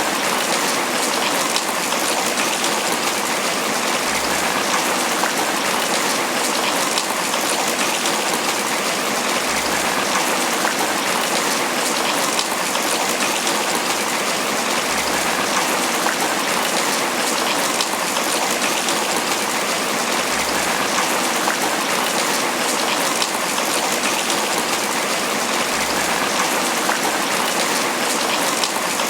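Tropical rain falling steadily on banana leaves: a dense, even hiss of drops with no let-up.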